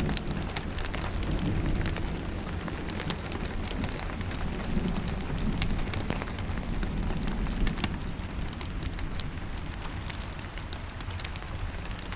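Steady rain hissing together with a wood fire crackling in sharp, scattered pops, over a low rumble that swells and eases several times.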